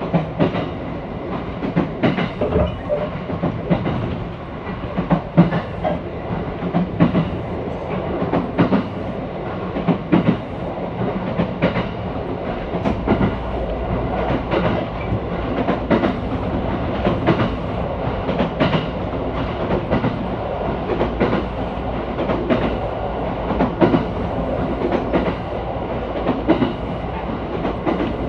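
Running noise inside a train car: wheels rumbling along the track with repeated clicks and knocks as they cross rail joints. A deeper rumble grows about halfway through.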